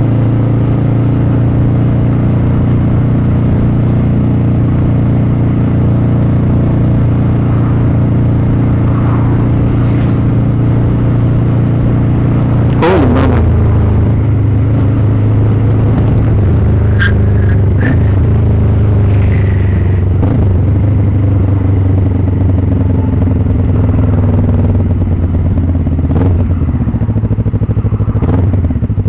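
Motorcycle engine running steadily while riding, with a sudden change in the engine note about halfway through and another shift near the end.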